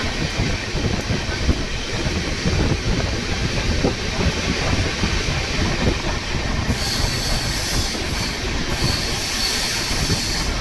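Train running on the track with a steady rumble of wheels. A high hiss comes in about seven seconds in, breaks off briefly, and returns.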